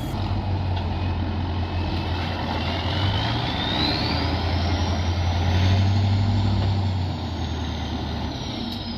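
Tatra truck-trial truck's diesel engine working hard, with a high whine that rises over several seconds and falls back near the end. The engine note is at its loudest about six seconds in, then eases off.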